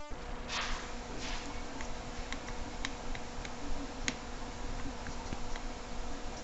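Scattered light clicks of small tools and parts being handled while a phone is taken apart, over a steady electrical hum.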